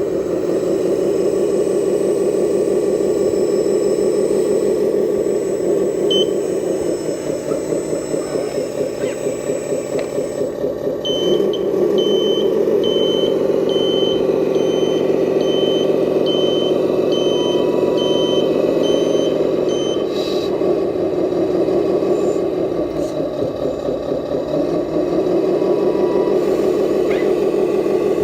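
RC Scania dump truck's simulated diesel engine sound running and shifting in pitch, chugging at a lower note twice. From about eleven to twenty seconds in, a reversing alarm beeps steadily, about one and a half beeps a second.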